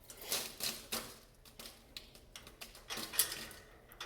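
Irregular sharp clicks and taps, about a dozen in a few seconds, uneven in spacing and strength, with the sharpest about three seconds in.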